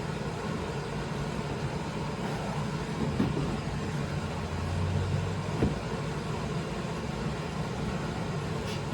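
Steady drone of a garage space heater running, with a low hum and a few light knocks.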